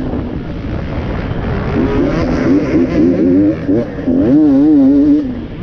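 Enduro dirt bike engine revving up and down under a working throttle. Its pitch rises and falls in quick blips through the middle, then holds a wavering note near the end, over a steady low rumble.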